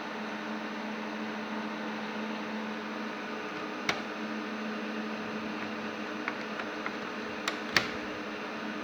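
Steady machine hum with a strong low tone, like a fan or motor running, broken by a handful of short sharp clicks from about four seconds in.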